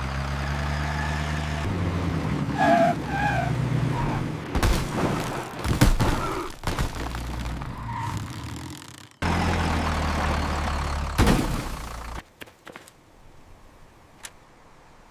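Vehicle engine running, with a series of loud bangs and crashes in the middle, as in a crash sound effect; the sound drops much quieter a few seconds before the end.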